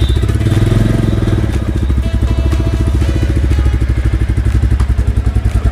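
Royal Enfield Classic 350's single-cylinder engine idling on its first start, with a short rise in revs about a second in before it settles into a steady, even beat.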